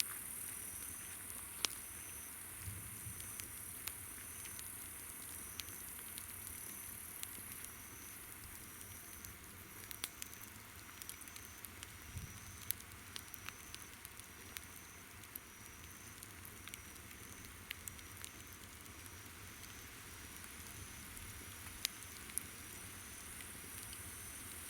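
Wood campfire crackling with scattered sharp pops, over a chorus of insects: a steady high trill that thins out in the middle and returns near the end, and a short high chirp repeating a little faster than once a second.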